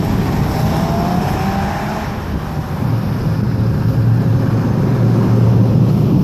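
A car's engine under acceleration in a flyby. The pitch rises over the first two seconds, then settles into a deep, steady drone that grows louder toward the end.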